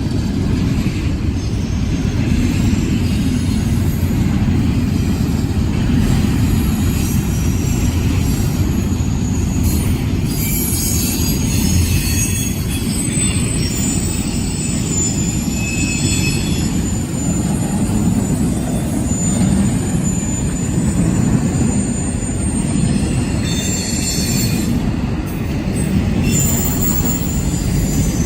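Intermodal freight train rolling past: a steady heavy rumble of wheels on the rails, with thin, high-pitched wheel squeals coming and going through the middle of the passage.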